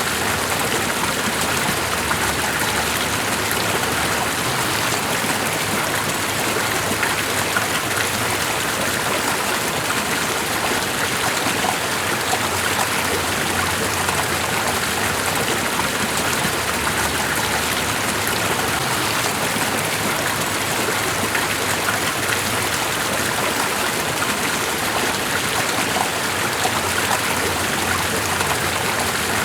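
Steady, even rush of running water with small scattered ticks through it.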